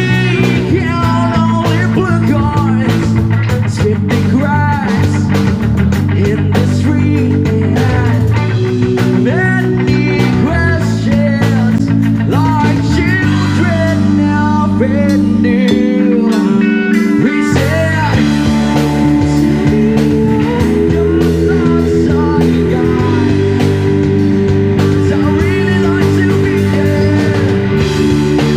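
Live rock band playing, with an electric guitar lead bending notes over bass and drums. The bass drops out for about two seconds midway through.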